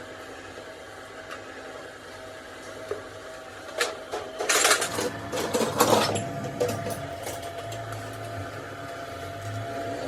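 A burst of sharp clattering and clinking, like metal parts or tools being handled, over a steady workshop hum with a thin constant tone. The clatter is loudest between about four and six and a half seconds in.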